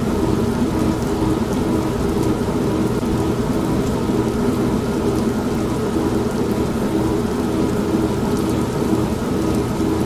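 An old manual washing machine running with a steady motor hum, mixed with steady rain and a low rumble of thunder.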